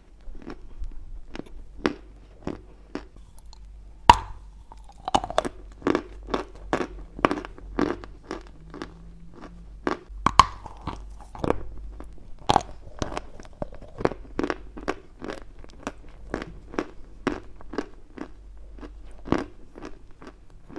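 Close-miked crunching and chewing of a dry, chalky mineral chunk (eating chalk or clay): sharp crunches about twice a second, with a few louder bites in between.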